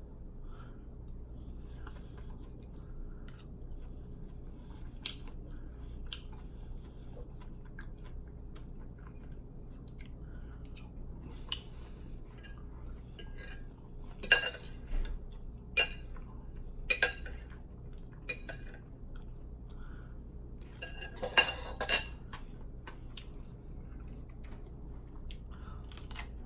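Eating sounds: cutlery clinking and scraping on a plate, with chewing in between. A few louder clinks come past the middle and again near the end, over a faint steady low hum.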